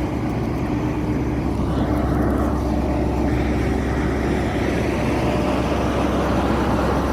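Diesel passenger train running, heard from inside the carriage: a steady low engine drone with a few held tones, growing slightly louder about two seconds in.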